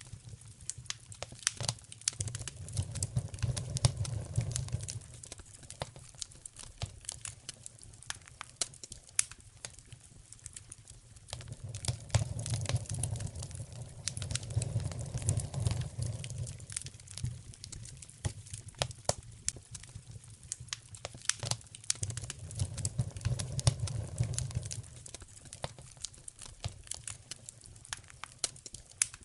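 Wood fire in a fireplace crackling, with many sharp pops and snaps throughout. A low rumble swells and fades three times, about a second in, in the middle and toward the end.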